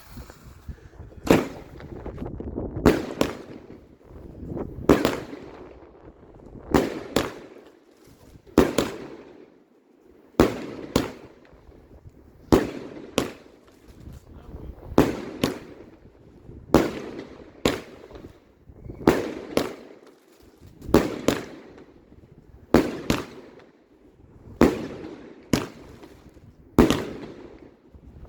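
A firework cake firing shot after shot, with a loud bang or two every couple of seconds, each trailing off in echo.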